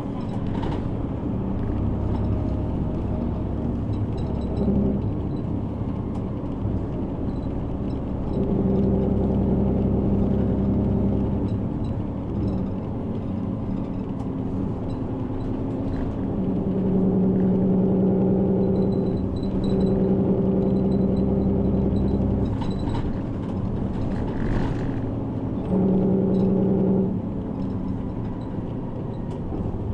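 Diesel city bus heard from inside the cabin while under way: a steady low rumble of engine and road, with the engine's droning note growing louder for a few seconds at a time, about three times, as it pulls, and faint small rattles and clicks.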